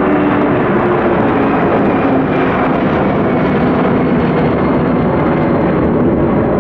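Jet airliner's engines, loud and steady as the aircraft passes close by, with faint tones sliding down in pitch in the first few seconds.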